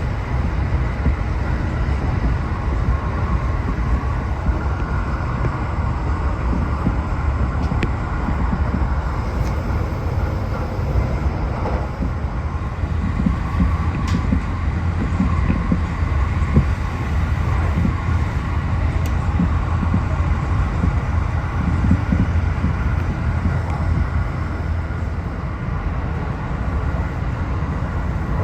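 A JR Special Rapid Service (Shinkaisoku) train running steadily at speed, a continuous low rumble of wheels and running gear heard from inside the passenger car.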